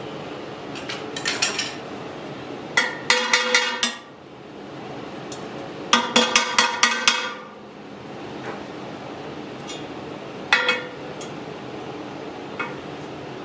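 Metal parts clanking and ringing in short bursts of several quick strikes, three bursts and then two single knocks, over a steady hiss.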